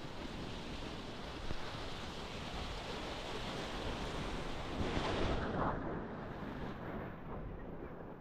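Sea waves washing onto a sandy beach, with wind buffeting the microphone. The wash swells to its loudest about five seconds in, then eases.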